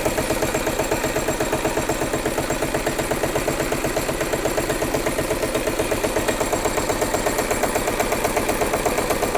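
Engine idling steadily with an even, rapid pulse of about eight beats a second.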